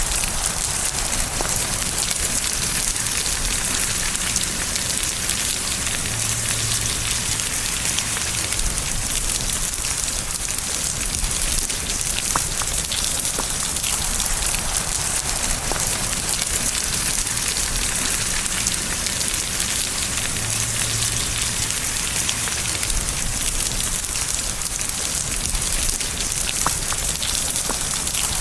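Steady rain falling, a dense, even patter of raindrops that keeps up without a break.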